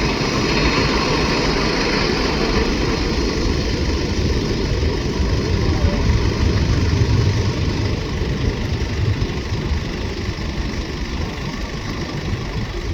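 Boeing 747-400's four jet engines running at taxi power: a steady low rumble under a broad hiss, easing off slightly after about nine seconds.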